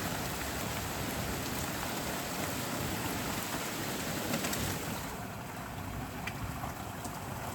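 Steady rain falling in a thunderstorm, a continuous hiss with a few scattered drop ticks, growing a little softer about five seconds in.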